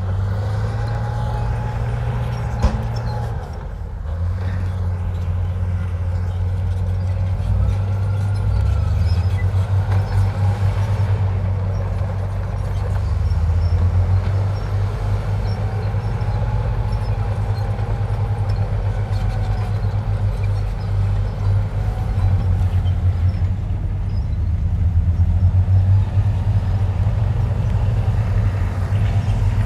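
Heavy earthmoving machine's diesel engine running and working under load, its note rising and falling slowly, with a single sharp click about three seconds in.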